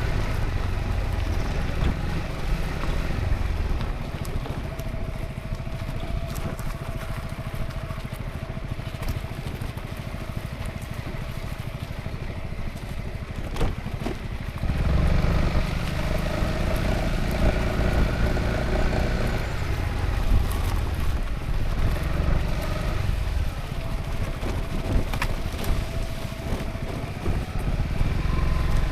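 Honda ADV350 maxi-scooter's single-cylinder engine running while riding, with low wind rumble. The engine note and rumble ease off early on, swell again about halfway through and once more near the end as throttle and speed change.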